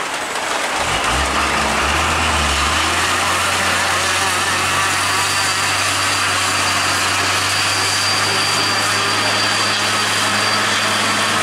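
A vehicle engine running at a steady low pitch, coming in about a second in and holding an even note, over a continuous hiss of wet road or rain noise.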